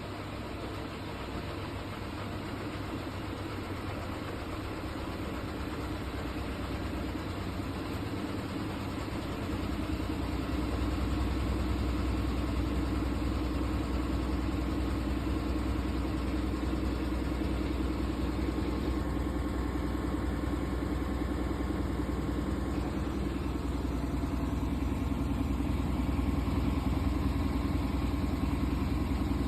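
Washing machine running and shaking badly, a steady mechanical hum with rumbling vibration. The rumble grows louder and deeper about ten seconds in, then holds.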